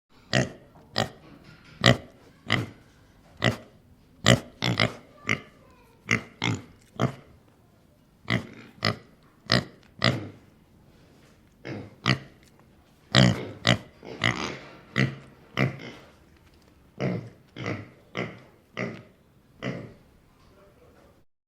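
A pig grunting: a long run of about thirty short, sharp grunts, one or two a second.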